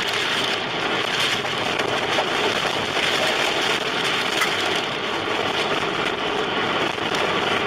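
Steady rushing noise from inside a car driving through a severe storm: wind, rain and road noise, with a few light ticks against the car.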